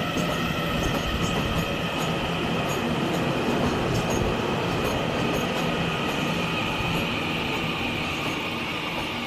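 Taiwan Railway train running along the platform: a steady rumble of wheels on rail with high, steady squealing tones over it, easing slightly near the end.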